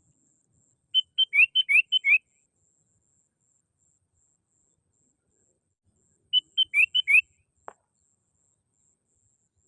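Sooty-headed bulbul calling: two quick bursts of bubbly whistled notes, each about a second long, roughly five seconds apart.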